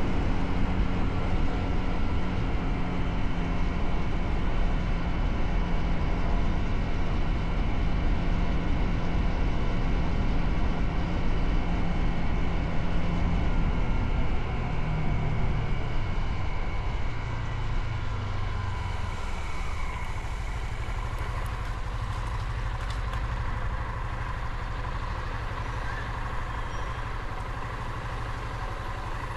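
Motorcycle engine running while riding. Just past the middle the engine note falls over a few seconds as the bike slows, then it runs at a lower, steady note.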